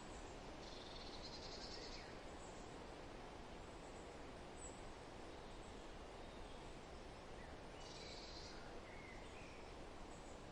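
Faint forest ambience: a steady rustling hiss of wind in foliage, with songbirds calling. A high, buzzy trill starts about half a second in and lasts over a second, and comes again near the end, followed by a few short chirps.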